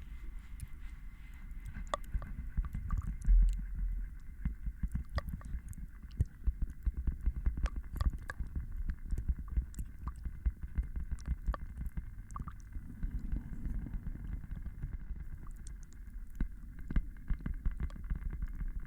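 Layered ASMR trigger sounds: a dense run of soft crackles and small clicks over a low rumble, with a faint steady tone underneath.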